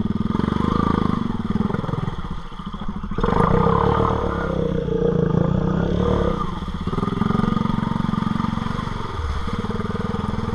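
ATV engine running under way as it is ridden, the revs rising and falling, with a louder burst of throttle about three seconds in.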